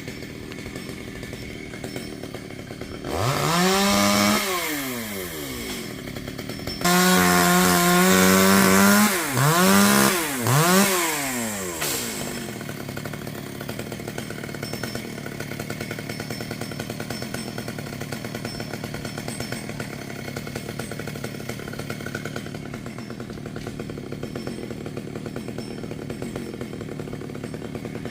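Chainsaw engine idling, revved up briefly about three seconds in, then held at high throttle for about two seconds and blipped twice more before dropping back to a steady idle.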